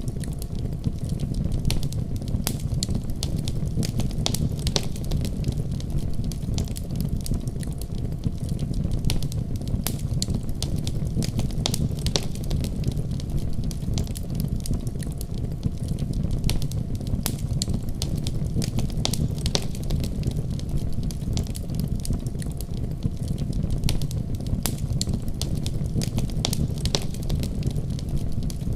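Wood fire in a fireplace crackling: frequent sharp pops and snaps over a steady low rumble.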